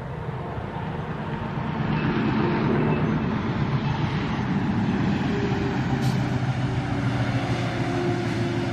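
A vehicle engine running, growing louder over the first two seconds and then holding steady with a low hum of several steady tones.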